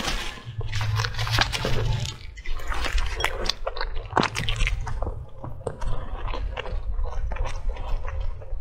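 Close-miked chewing of a soft pastry bun with a dark filling: a steady run of small, sharp mouth clicks.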